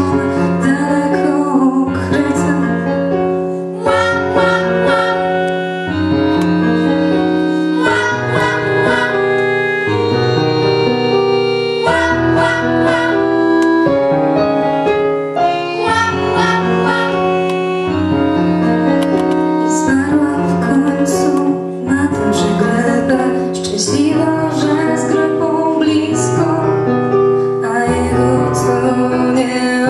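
A song: voices singing over keyboard accompaniment, with a bass line changing note about every second.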